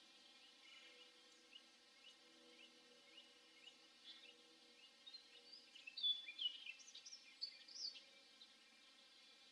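Small birds calling outdoors: short high chirps repeated about twice a second, then a louder, busier run of varied high notes for a couple of seconds past the middle.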